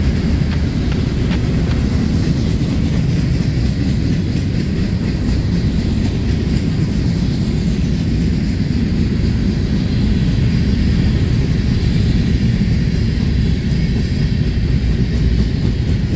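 Freight cars of a Union Pacific manifest train rolling past: a steady low rumble of steel wheels on rail, with a few faint clicks.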